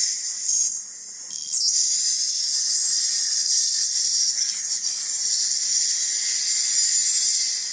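Steady, loud, high-pitched hiss of recording noise, with faint music-like sound beneath it; the hiss drops out briefly about a second in.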